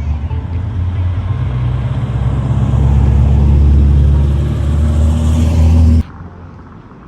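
A car engine running loudly with a deep, steady note that grows louder over the first few seconds and cuts off abruptly about six seconds in.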